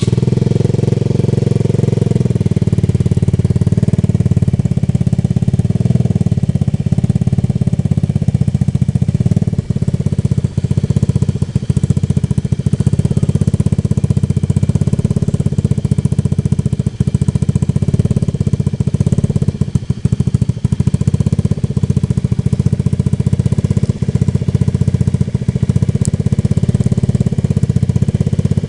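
Honda Scoopy scooter's single-cylinder engine idling steadily through an aftermarket Nobi Titan exhaust, with a loud, even exhaust note and no revving.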